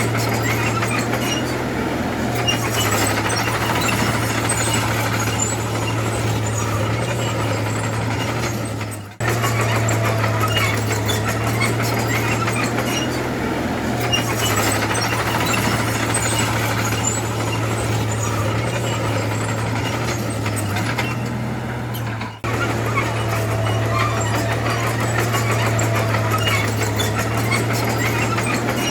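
Heavy diesel earthmoving machine running steadily, most likely the bulldozer, with a faint high squeal coming and going over the engine. The sound breaks off sharply twice and picks straight back up.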